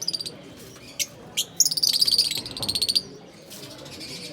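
Small cage birds calling: a few short, high chirps, then a loud, fast trill lasting about a second and a half.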